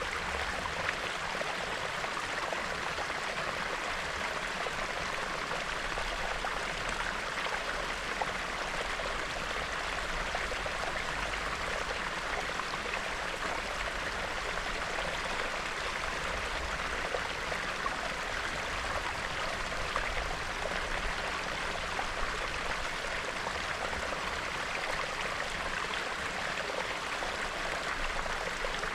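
A small, shallow stream bubbling and babbling steadily over stones, with a constant low rumble under it.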